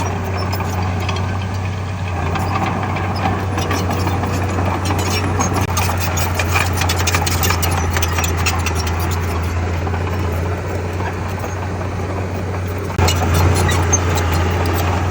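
Diesel engine of heavy earthmoving machinery running steadily with a low drone. A run of quick clanks and rattles comes in the middle, and the engine gets louder suddenly near the end.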